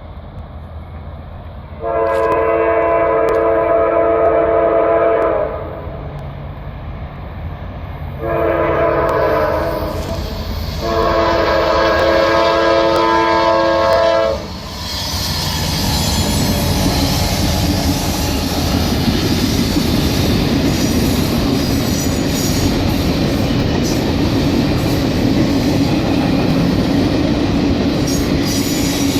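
Diesel locomotive air horn sounding three blasts of a multi-note chord, long, shorter and long, as a grade-crossing warning; then, about halfway in, the train passing close by with a steady loud rumble and clatter of rolling wheels over rail joints.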